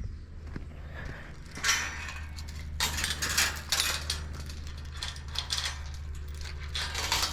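Irregular bursts of rustling and crunching over a low steady hum, the loudest bursts about one and a half to four seconds in and again near the end.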